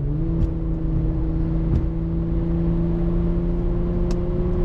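Infiniti G37's 3.7-litre V6 through a custom cat-back exhaust with long resonators, pulling lightly under part throttle. The engine note steps up as the throttle opens, climbs slowly and steadily, then drops at the end.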